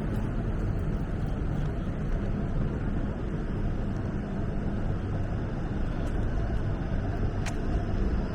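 Steady low rumble of road traffic on a downtown city street, with a brief faint click about seven and a half seconds in.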